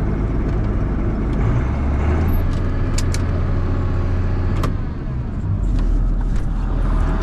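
John Deere 7200 tractor's six-cylinder diesel engine running steadily under load, with a few sharp rattles and clicks; the engine note drops to a lower pitch about five and a half seconds in.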